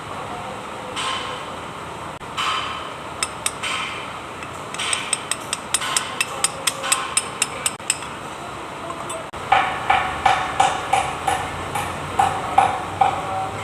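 Hammer striking metal: a run of light taps, then from about two-thirds of the way in a quick series of heavier ringing blows, about three a second.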